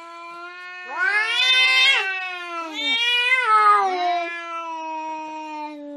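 Domestic cat yowling in long, drawn-out cries that rise and fall in pitch, loudest about one to two seconds in and swelling again around three seconds.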